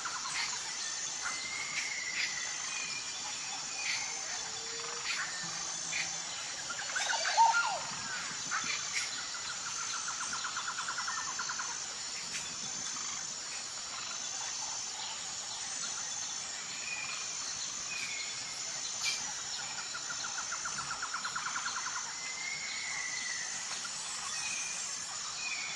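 Several birds calling over a steady, high insect drone, with short chirps, a rapid trill heard twice, and one louder call about seven seconds in.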